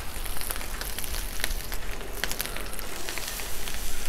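Chorizo and hash browns frying on a hot Blackstone flat-top griddle: a steady sizzle with frequent sharp crackles and pops of spattering chorizo fat.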